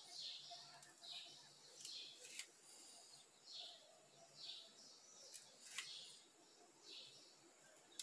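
Faint, repeated high chirps of a small bird, about one a second, each a short falling note, with a few sharp clicks in between.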